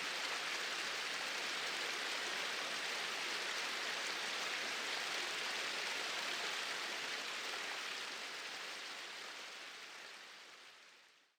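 Small waterfall splashing in a steady rush of water, fading out over the last few seconds to silence.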